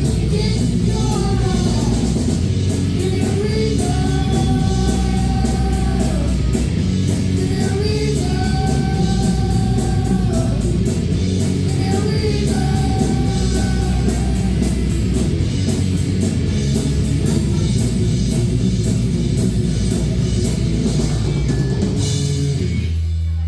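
Live rock band playing loud, with drum kit, electric guitar and singing. Near the end the drums and cymbals stop, leaving a low held note.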